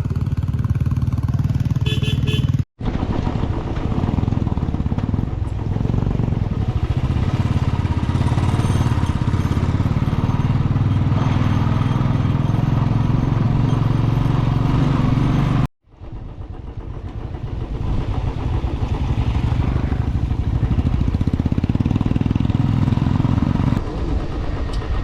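Motor vehicle engine running steadily with a dense low rumble. The sound cuts out abruptly and briefly twice, about three seconds in and again about sixteen seconds in.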